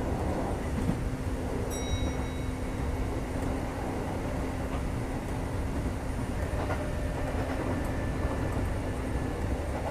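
Running noise heard inside a Kintetsu 2430 series train car: a steady rumble of wheels on rail with a faint steady hum.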